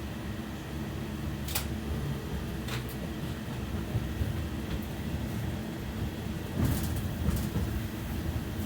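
Inside a BKM 60102 low-floor tram running between stops: a steady low rumble of wheels and motors, with a few sharp clicks and knocks about one and a half seconds in, near three seconds, and again around seven seconds.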